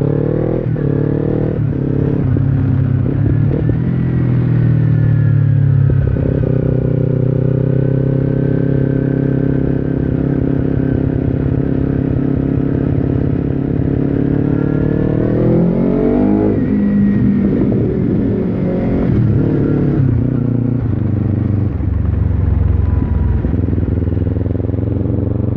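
2015 Kawasaki Ninja 300's parallel-twin engine through an Akrapovic slip-on exhaust, riding under way. It holds steady revs for several seconds, then revs climb hard in one gear and fall sharply at a shift about two-thirds of the way in, before settling to a steady run.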